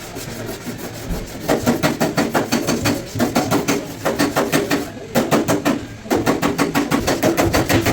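Rapid, even hammer taps on a sheet-steel car floor panel, about eight a second, in runs broken by short pauses, the thin metal ringing under each blow.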